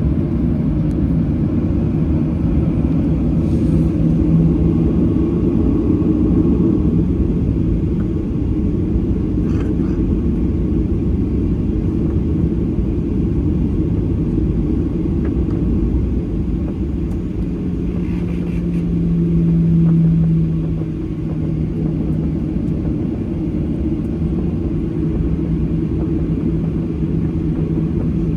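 Cabin noise of a Boeing 737-800 on the ground, its CFM56-7B engines running at low power: a steady low rumble and hum that swells briefly about two-thirds of the way through.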